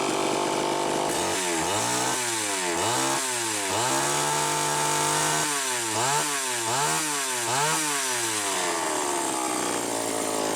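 Homelite Super XL two-stroke chainsaw engine, freshly rebuilt, running on a test run. It idles, then is blipped through three quick revs, held at high revs for about two seconds, and blipped four more times before dropping back to idle.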